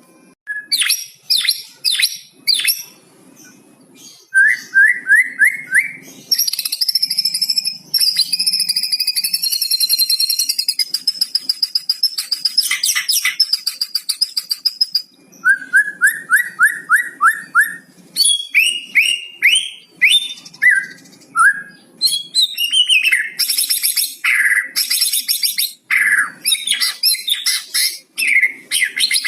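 White-rumped shama (murai batu) singing a long, varied song with phrases mimicked from other birds. It has runs of quick rising whistles, a long rapid high trill in the middle, and loud sharp notes toward the end.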